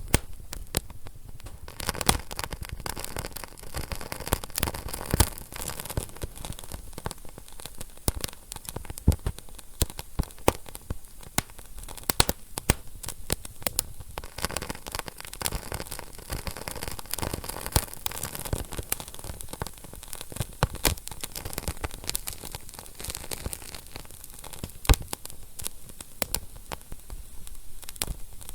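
Wood fire burning in a fireplace, crackling continuously with many sharp pops over a steady hiss of flame.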